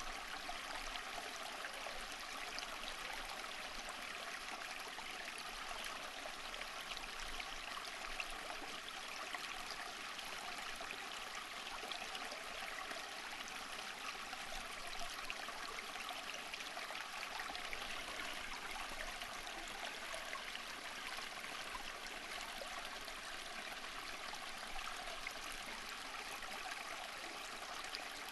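Flowing stream water, a steady babbling and trickling rush.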